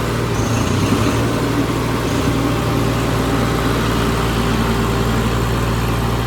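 Tractor diesel engine running steadily and close by, a loud, even low drone with no change in pitch.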